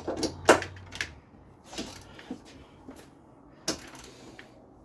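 Irregular metallic clicks and clinks of hand tools on the engine mount bolts as they are tightened, the loudest about half a second in.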